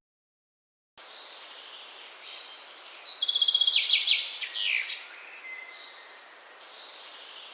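A small bird singing: a rapid run of high chirps with quick downward-sweeping notes in the middle, over a steady outdoor hiss, after a second of silence at the start.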